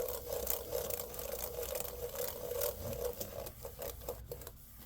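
An alcohol-dampened rag rubbed briskly back and forth over laptop keyboard keys, a steady scrubbing with light key clatter. The rubbing stops about three seconds in, leaving a few scattered light clicks.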